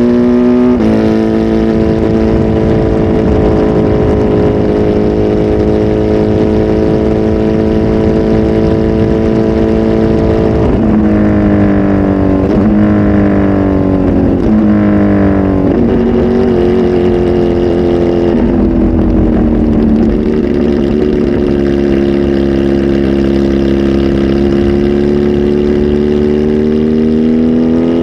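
Kawasaki Z H2 SE's supercharged inline-four through a full aftermarket exhaust, under way: it holds a steady pitch, then about ten seconds in the revs fall and jump back up three times as the bike slows and is shifted down, before settling lower and climbing gently again near the end.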